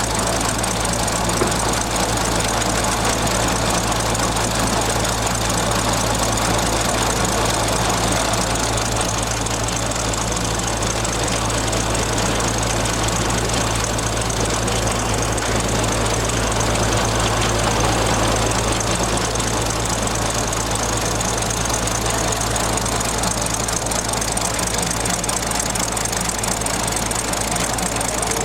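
Miniature scale-model internal-combustion engine running steadily, with a fast, even knocking beat.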